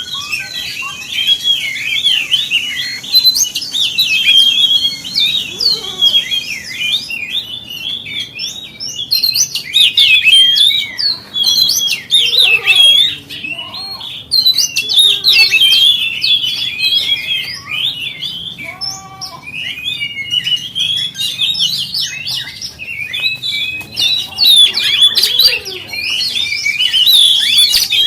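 Oriental magpie-robin (kacer) singing: a loud, fast, unbroken stream of varied chirps, whistles and trills, with a few lower notes mixed in midway.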